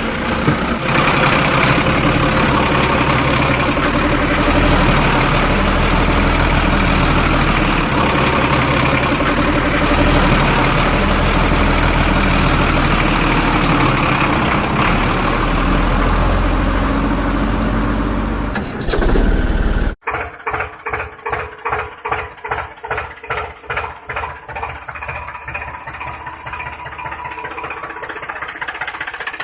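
Tractor engine running loudly and steadily. About 20 seconds in it cuts off suddenly and is followed by a slower chugging idle, about two pulses a second, that evens out toward the end.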